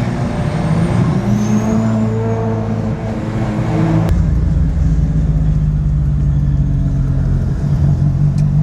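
Car engine running on the road, its pitch climbing around a second in, with a sudden change in its sound about four seconds in.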